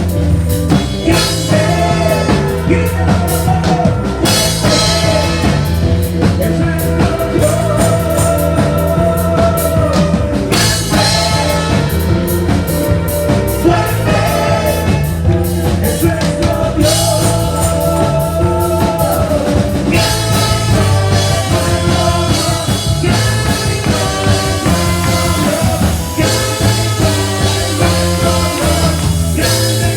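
A band playing an upbeat rock song with drum kit and bass, with a singing voice carrying the melody.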